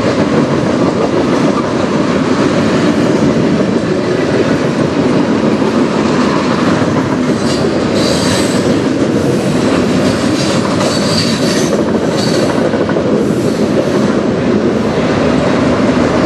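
Freight cars of a passing train (tank cars, lumber-loaded centerbeam flatcars and autoracks) rolling by: a loud, steady noise of steel wheels on the rails. High-pitched wheel squeal comes and goes in the middle.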